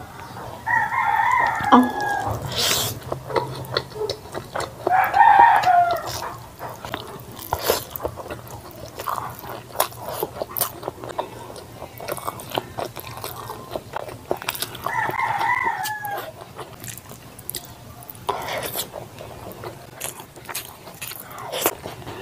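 Wet chewing and lip-smacking of noodles eaten by hand, with many small clicks throughout. A rooster crows three times: about a second in, around five seconds, and around fifteen seconds. The middle crow is the loudest.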